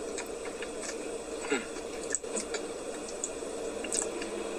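Eating sounds from a Dairy Queen Blizzard: scattered small clicks and scrapes of a spoon in the ice-cream cup and chewing, over a steady hum.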